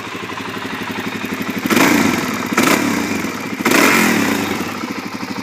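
2008 Suzuki DR-Z400SM's single-cylinder four-stroke engine idling, then blipped three times on the throttle about a second apart, settling back to idle after each rev.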